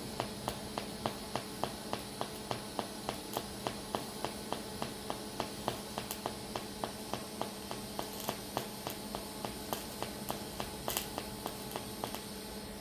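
Pulsed TIG welding arc ticking evenly, about four times a second, over a steady hum.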